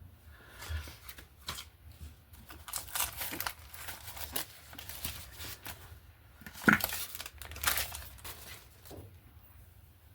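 Paper being handled: irregular rustling, crinkling and tearing, with one sharper, louder crackle about two-thirds of the way through.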